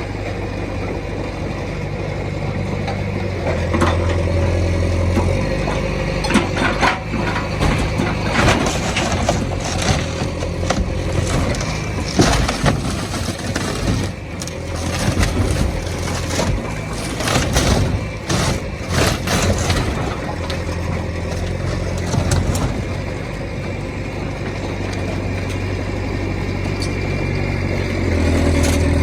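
Heavy machine engine running and labouring under load, with repeated sharp cracking and crunching as a yacht's fibreglass hull is broken up, thickest in the middle of the stretch.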